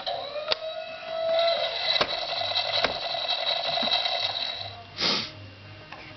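Electronic sound effect from a CAT toy truck: a buzzy tone that rises a little, then holds for about four and a half seconds. A few knocks and a short hiss come about five seconds in.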